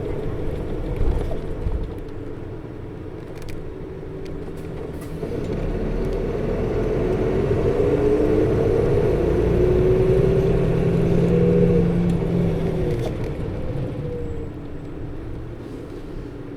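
Interior running sound of a 2008 PKG-RA274KAN city bus: the diesel engine and its engine-cooling coupling fan, a fan that runs the whole route and is loud for the engine speed, rise in pitch and loudness as the bus accelerates from about six seconds in, then ease off near the end. A few short knocks sound in the first few seconds.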